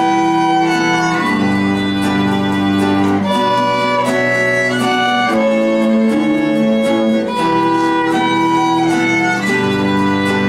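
Instrumental string quartet-style ensemble, acoustic guitar, two violins and cello, playing a slow melody. The violins carry sustained bowed notes over held cello bass notes and plucked guitar chords.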